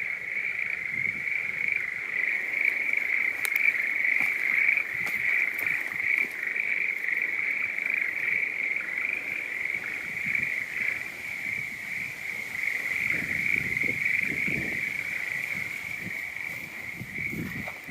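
A dense chorus of many frogs calling together, a continuous high, trilling band with no break. Low rustling comes in about two-thirds of the way through and again near the end.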